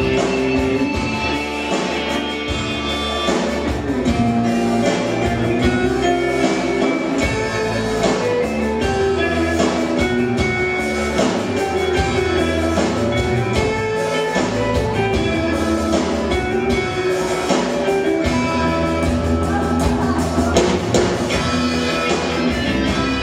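Rock band playing an instrumental passage with electric guitar and drum kit over a steady beat. The playing is full of slips, which the uploader calls terribly botched.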